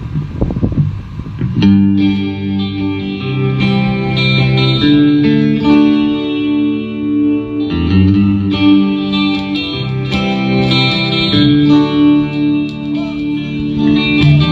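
Electric guitar played through effects, coming in about two seconds in with held, ringing chords and melody notes over low sustained notes: a song's instrumental intro.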